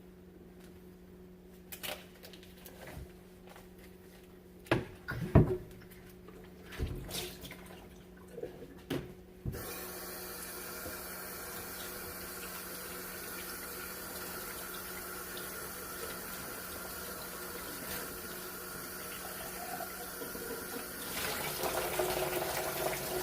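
A few scattered knocks and clunks, then about ten seconds in a kitchen faucet comes on suddenly and runs steadily while a whole raw chicken is rinsed under it. The water gets louder near the end.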